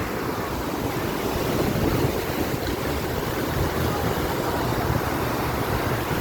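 Rough surf washing onto a beach: a steady rush of waves from a sea running unusually high and strong.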